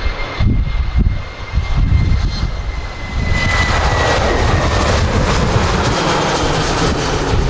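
Jet airliner's engines: a loud rushing roar with a thin high whine that slowly falls in pitch, growing louder about three seconds in.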